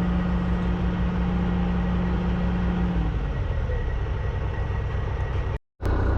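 Heavy diesel engine running steadily, with a steady tone in its hum that stops about halfway through. The sound cuts out briefly near the end.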